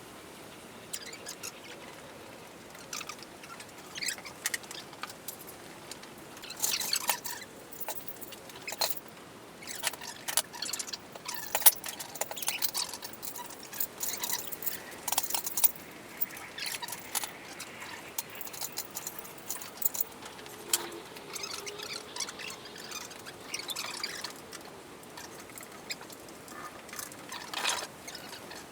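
Irregular clinks, clicks and rattles of hand tools and metal fittings being worked and set down while parts are undone on a car's engine.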